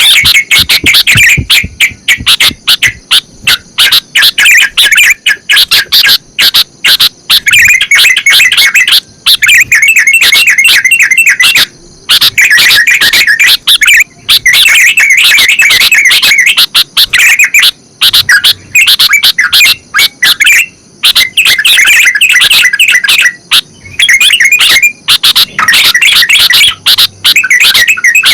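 Bulbuls singing very loudly in quick, bubbly chattering phrases, each a few seconds long, with short breaks between them. This is the song of the sooty-headed bulbul (kutilang) set against that of the yellow-vented bulbul (trucukan).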